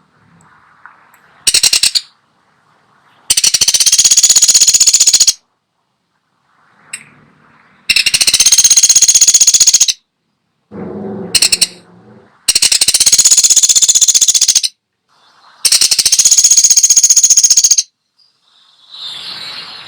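Woodpecker giving a fast, high-pitched rattling call in bursts about two seconds long, four times with a short burst before them. A brief lower sound comes between bursts a little past the middle.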